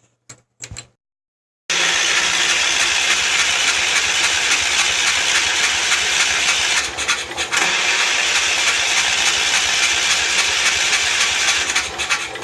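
A few light clicks, then the Wheel Horse C-145 garden tractor's engine turning over on the starter for about ten seconds with a brief dip in the middle, cutting off near the end without settling into running: the engine won't start.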